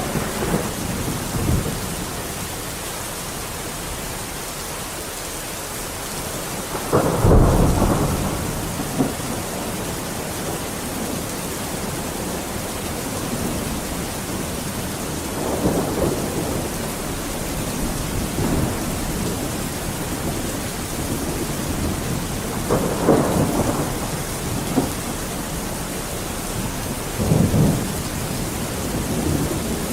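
Steady heavy rain with thunder rumbling four times, the loudest roll about seven seconds in and lighter ones at about 15, 23 and 27 seconds.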